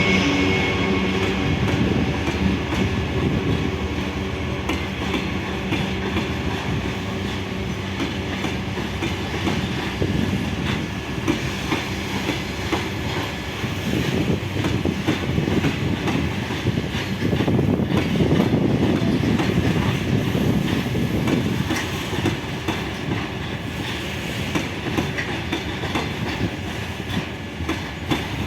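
A train rolling past, its wheels clattering rhythmically over the rail joints throughout, with steady tones that fade away in the first second.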